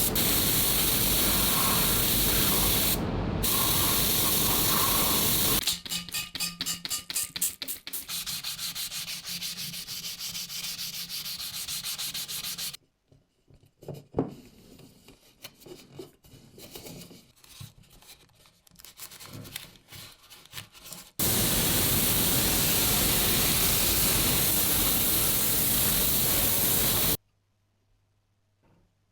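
Workshop restoration work in several edited cuts. A steady loud hiss of blasting or air gives way to rapid back-and-forth rubbing or sanding strokes, then scattered light clicks and knocks of handling parts. The steady hiss returns and cuts off suddenly near the end.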